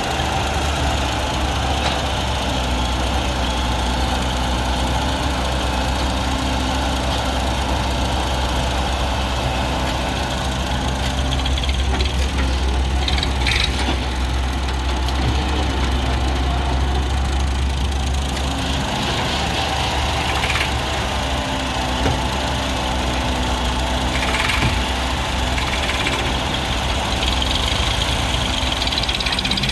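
Diesel engines of an excavator and a tractor running steadily with a low hum while mud is loaded, the pitch shifting a little as the machine works. A few short clanks sound in the middle and later on.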